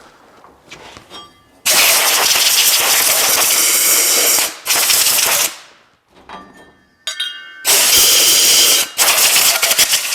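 Sandblaster blasting abrasive onto welded steel brackets in long bursts of loud hiss, the first starting about two seconds in, with short breaks and light clinks of the parts between bursts.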